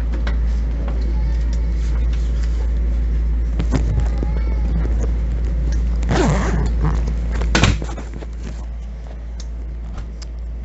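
A Bombardier M7 electric train car running along the track between stations, heard from inside: a steady low rumble with scattered clicks. A louder noisy burst comes about six seconds in, and after it the rumble eases a little.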